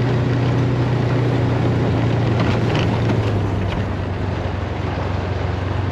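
Polaris Ranger XP side-by-side engine running at low trail speed, its engine note dropping slightly about halfway through.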